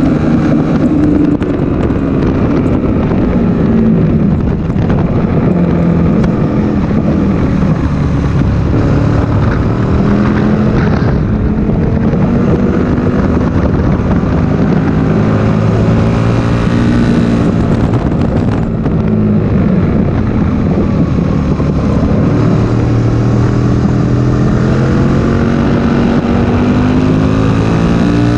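Aprilia Tuono 1000R's 60° V-twin engine at track speed, climbing in pitch under hard acceleration, dropping back when it shifts or slows for corners, then rising again near the end. Wind rushes over the microphone.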